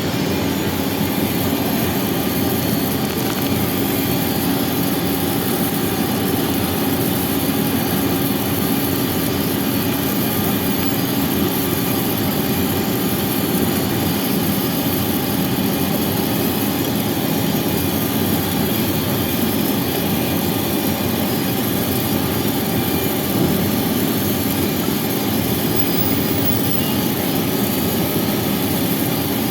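Vehicle engine running steadily, even and unchanging, with a new screw fitted with no gap and no abnormal noise from it.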